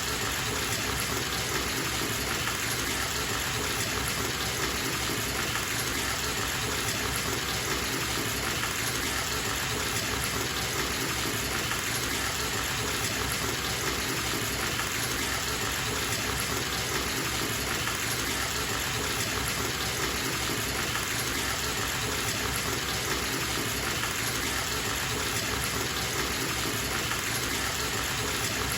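Bathtub faucet running into the tub, a steady gushing rush of water that does not change.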